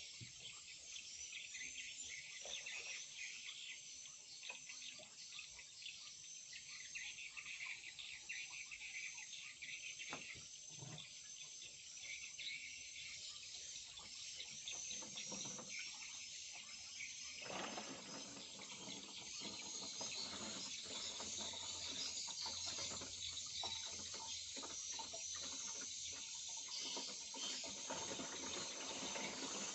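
Dense, continuous high twittering of swiftlet calls, as heard in a swiftlet house. About 17 seconds in, a broader, lower hiss-like noise joins and stays.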